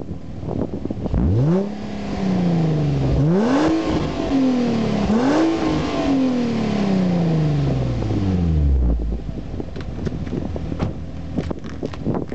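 2006 Infiniti G35x's 3.5-litre VQ V6, warm and through its stock exhaust, revved three times: each rev climbs quickly and then falls back slowly, the third and highest dying away over several seconds. Wind noise with a few light clicks follows near the end.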